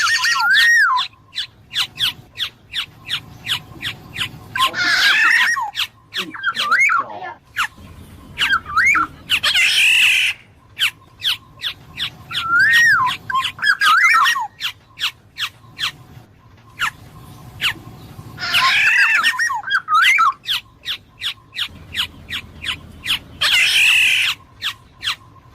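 Black-naped oriole calling: short fluty whistled phrases and loud harsh squawks, returning every few seconds, with trains of sharp clicks between them.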